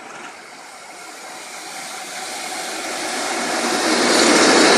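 Electric locomotive coming down the line and passing close by. Its noise of wheels on rails grows steadily louder and is loudest near the end as it goes past.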